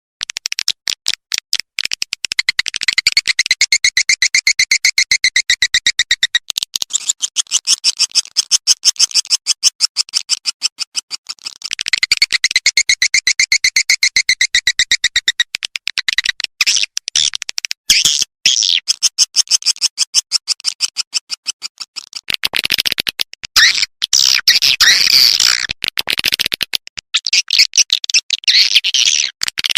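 Swiftlet lure call of edible-nest swiftlets: loud, rapid trains of high chirps and twitters repeated in looped sections, with a denser twittering stretch about two-thirds of the way through. It is the kind of sound played in swiftlet houses to draw the birds in to roost and nest.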